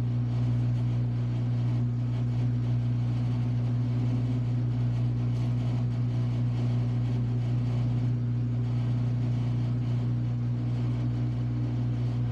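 Samsung washing machine running near the end of a quick wash cycle, its motor giving a steady low hum.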